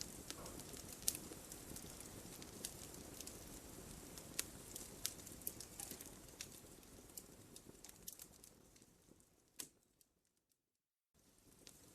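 Wood fire in a fireplace: logs crackling with scattered sharp pops over a soft, low flame hiss. It fades out about nine seconds in to a second of dead silence, then fades back in.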